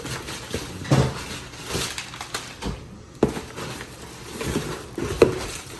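Package being handled and torn open: crinkling and rustling of packaging with scattered knocks and clicks, a few sharper knocks about a second in, near the middle and near the end.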